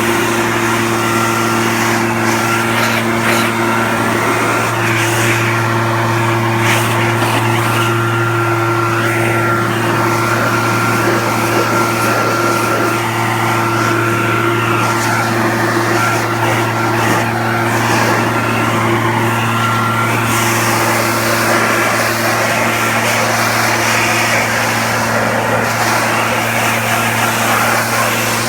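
RedMax gas backpack leaf blower, a two-stroke engine, running steadily while blowing water off a freshly washed truck.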